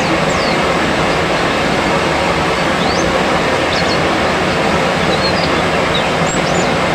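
Scattered short, high chirps of white-eyes (pleci) over a loud, steady rushing noise, as in a bird-training therapy track.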